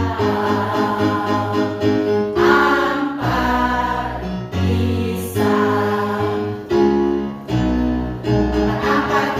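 A choir singing a slow song in held chords over an instrumental accompaniment, the chord changing about once a second.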